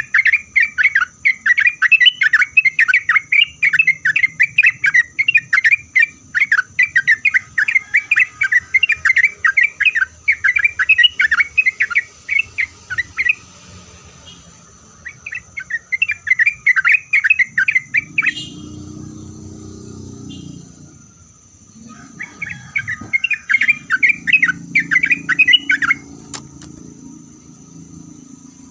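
Yellow-vented bulbul (trucuk) singing long, fast runs of chattering notes in three spells with short breaks between them. A low rumble comes in during the second half.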